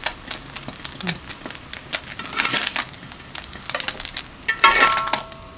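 French toast frying in butter on a griddle pan: a steady sizzle full of small crackling pops. Near the end a metal spatula scrapes and clinks on the pan with a brief ringing tone as a slice is lifted.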